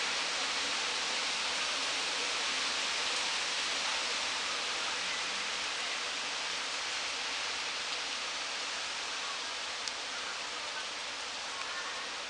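Wind rustling through tree foliage: a steady, even hiss that eases slightly in the second half, with a single faint tick about ten seconds in.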